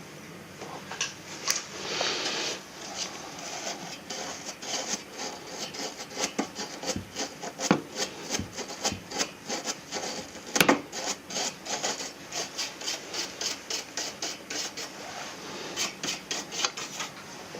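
Rapid back-and-forth rubbing and scraping strokes, about five a second, on an air conditioner that is being cleaned.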